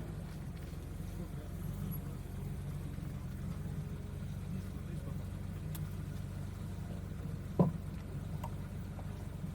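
BMW E34 M5 Touring's straight-six engine running low and steady, muffled by the camera's wind filter, with a single sharp knock a little over seven seconds in.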